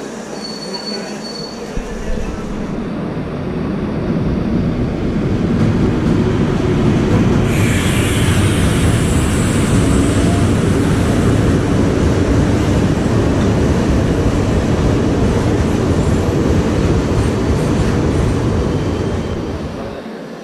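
Train wheels rumbling on the rails as a train runs past. The sound builds over the first few seconds, holds loud with a hissing, squealing edge, then fades near the end.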